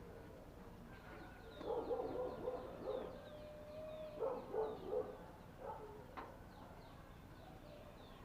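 Small birds chirping over and over in short, high, falling notes. A run of louder, lower-pitched bursts comes between about one and a half and five seconds in.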